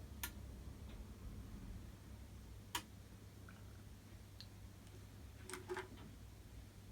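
A few faint, sharp little clicks and ticks, one near the start, one about three seconds in, and a small cluster near the six-second mark, as the iPhone 5C's LCD is worked on to clear off old glue and glass shards. A low steady hum runs underneath.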